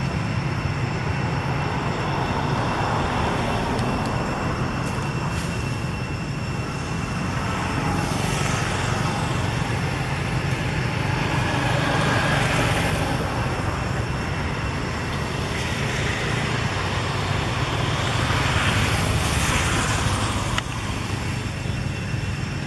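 Road traffic noise: a steady low rumble, with passing vehicles swelling louder a few times.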